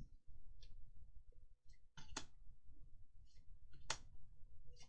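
Trading cards being handled and flicked through, making a few soft clicks, the sharpest about two and four seconds in.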